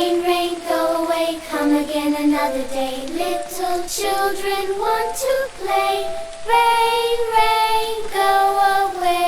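A child's voice singing a simple nursery-rhyme melody over music.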